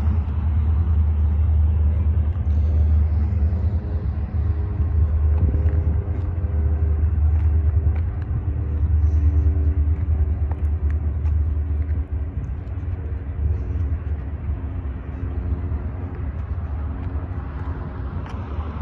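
Freight train of covered hoppers and boxcars rolling past, a steady low rumble with faint held tones above it and a few light clicks.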